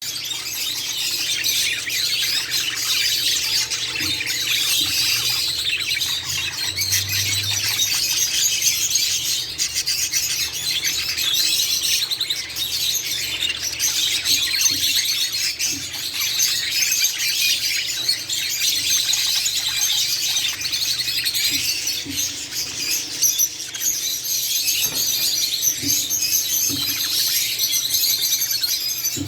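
A pair of budgerigars chattering and warbling without a break, a busy high-pitched twittering.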